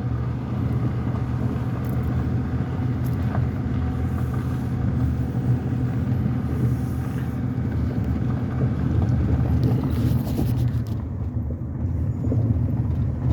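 Pickup truck running at low speed, about 20 mph, heard from inside the cab: a steady low engine drone with tyre and road noise.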